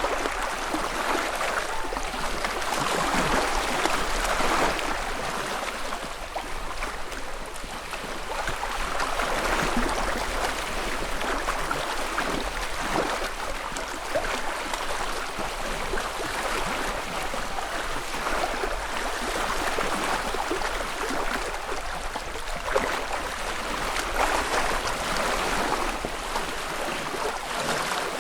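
Small lake wavelets lapping and splashing against the shore, in soft swells every few seconds with little splashes between.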